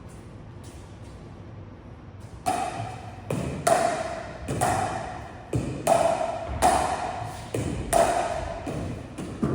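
Pickleball paddles hitting a plastic pickleball back and forth in a drill rally: a run of sharp, ringing pops, roughly one to two a second, starting about two and a half seconds in.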